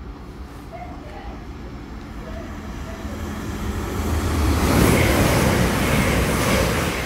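CrossCountry Voyager diesel-electric multiple unit approaching and running through the station at speed. The rumble of its underfloor engines and wheels on rail builds steadily, is loudest about five seconds in as the carriages go by, and begins to fade near the end.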